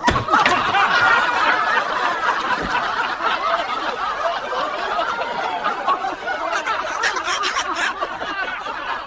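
Several people laughing continuously in overlapping voices, with snickers and chuckles.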